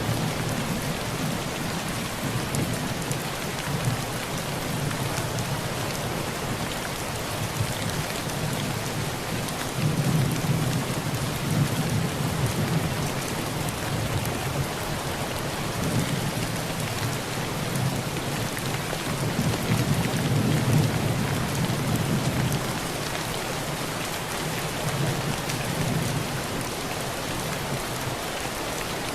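Heavy rain drumming steadily on a tin roof, with low rolling thunder that swells up twice, about a third and two-thirds of the way through.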